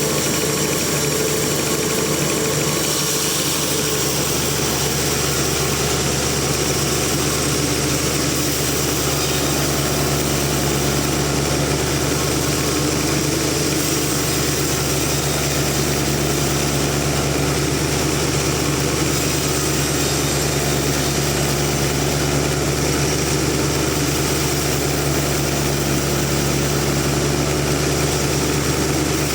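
Large band-saw sawmill machinery running steadily, a constant engine-like drone with a low hum that does not change.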